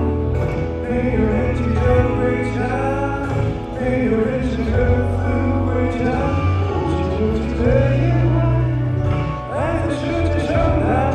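Live pop song: a male voice singing over a band with heavy bass.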